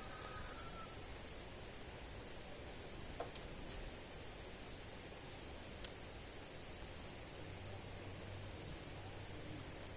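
Small birds giving short, very high chirps, scattered and irregular, over a steady outdoor background hiss.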